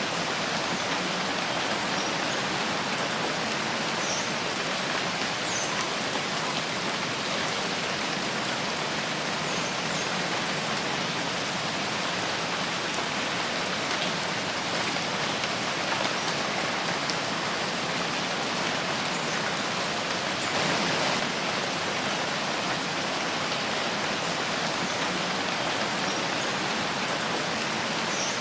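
Steady rain falling in a forest, an even hiss of drops on leaves and ground, briefly a little louder about two-thirds of the way through.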